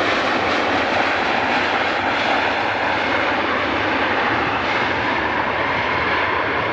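Jet airliner engines running: a steady, loud, even rush of jet noise.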